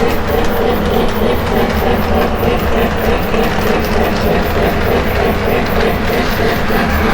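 Lionel O gauge model train running along the layout track, a steady hum and rumble of its motor and wheels.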